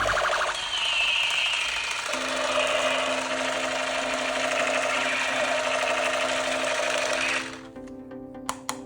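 A battery-powered plastic toy runs with a loud, steady motor buzz and electronic sound effects, then cuts off suddenly about seven seconds in. A few sharp plastic clicks follow near the end.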